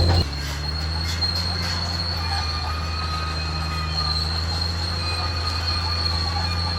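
Caterpillar D6R XL bulldozer's diesel engine running steadily under a continuous high-pitched squeal of the steel tracks and undercarriage. The engine drops suddenly in loudness just after the start.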